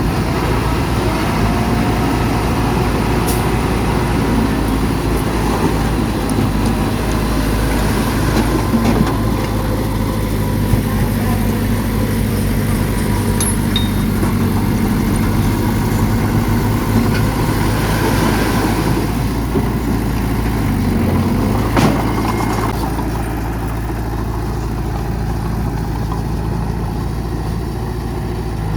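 Heavy diesel engines of earth-moving machinery running steadily, with a few sharp knocks.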